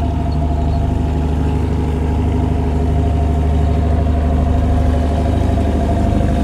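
A fishing boat's engine running steadily, a deep, even drone with a steady hum above it.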